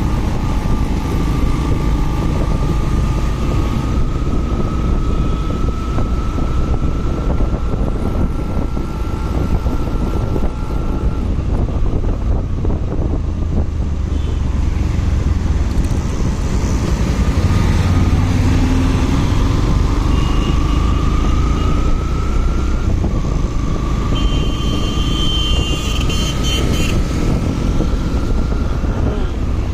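Motorcycle riding on the road: a steady engine and road noise, with a whine that climbs slowly as the bike gathers speed and drops back about a third of the way in, then climbs again twice.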